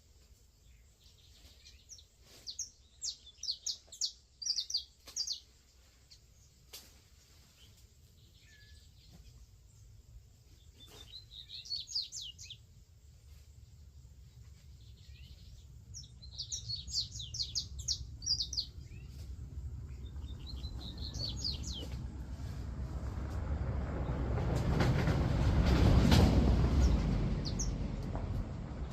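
Songbird singing in several bouts of quick, high chirping trills. Later a low rumbling noise swells, gets loudest near the end and then eases off, as of a vehicle passing.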